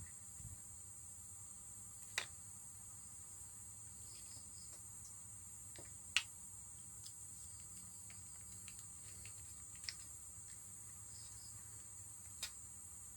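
Faint, steady high-pitched chirring of insects, broken by a few short sharp clicks.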